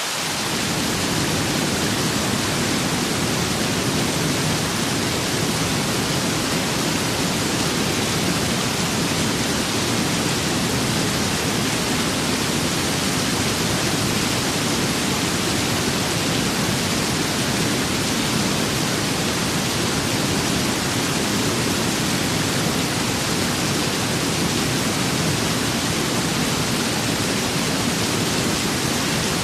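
Steady rain with wind: an even, unbroken hiss with a deeper rushing layer underneath that comes in right at the start.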